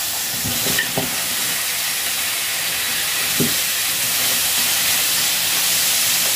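Cut tomatoes sizzling on a hot griddle pan: a loud, steady hiss as their juice boils off in steam. A few light knocks from the wooden spatula pushing them around come through it.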